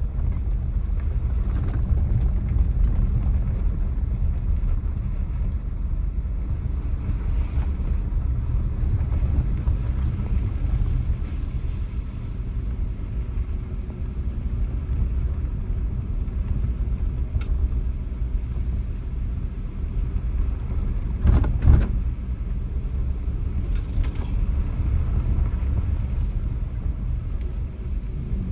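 Car driving along a road: a steady low rumble of engine and road noise, with a couple of short thumps about three-quarters of the way through.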